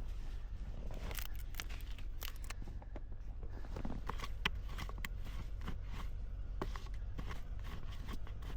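Footsteps crunching in snow, with irregular short crunches and snaps, over a steady low rumble.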